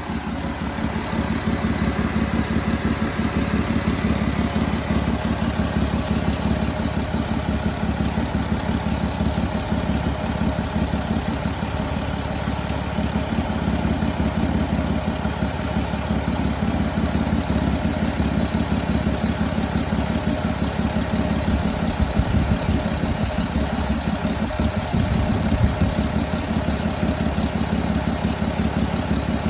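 VW Golf Mk4 VR6 six-cylinder engine idling steadily, with a constant hiss over the engine note that the owner suspects is a vacuum leak from a vacuum line.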